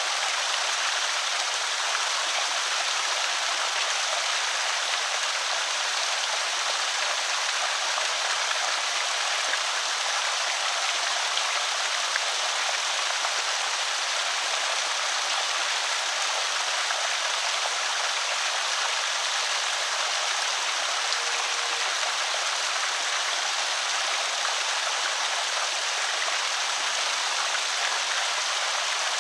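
Water pouring over a small creek spillway: a steady, even rush and splash.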